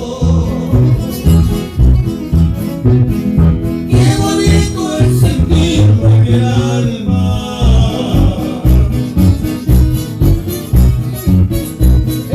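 Live trio music: guitars playing over a steady, pulsing bass beat, with singing in the middle of the passage.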